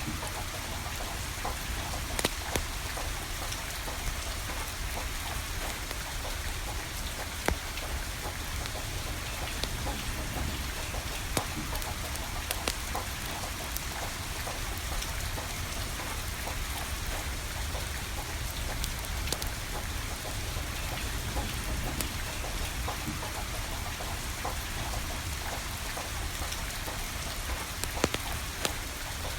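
Steady rain falling, with the sharp crackle and pop of a wood fire burning every few seconds.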